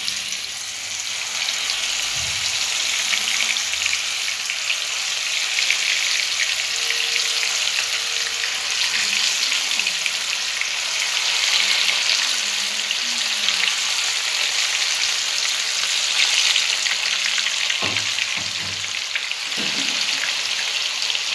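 Chicken pieces frying in hot coconut oil in a pan: a steady, dense sizzle and crackle.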